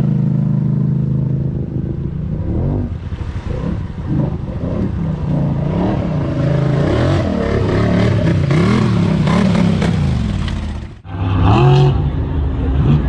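Mega truck engine revving up and down over and over, its pitch rising and falling every second or so. The sound breaks off abruptly about eleven seconds in, and an engine revs up again right after.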